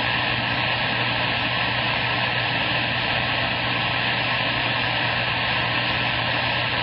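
CB radio speaker putting out steady static hiss with a low hum and a faint whistle under it, as a keyed carrier holds the squelch open with no voice on it.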